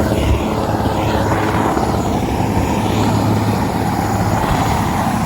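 Loud, steady engine drone with a constant low hum beneath a wash of noise.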